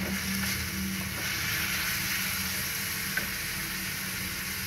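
Chopped onion and tomato frying in mustard oil in a steel pan, a steady sizzle, stirred with a wooden spatula.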